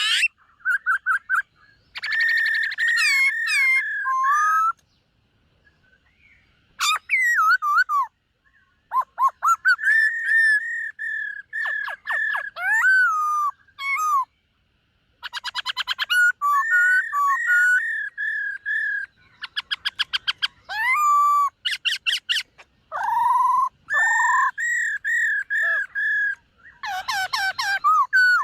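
Black-throated laughingthrush singing: loud, varied whistled phrases that slide up and down, mixed with rapid clicking trills, broken by a few short pauses.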